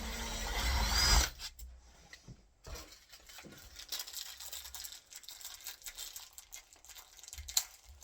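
Power drill running a 5 mm bit into a door, stopping abruptly about a second in, followed by faint clicks and handling knocks of the tool and parts.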